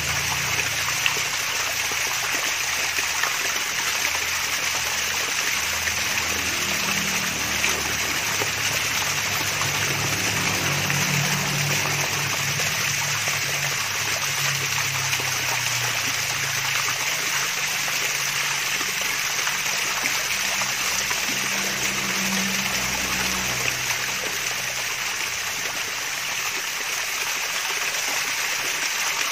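Small waterfall's water trickling and splashing steadily.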